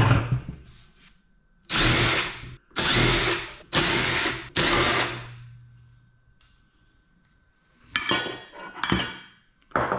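Electric drill/driver run in four short bursts of just under a second each, the motor whining up at each start, then a low hum dying away and a few clattering knocks near the end. Its trigger is misbehaving, and the owner wonders whether the drill is going bad.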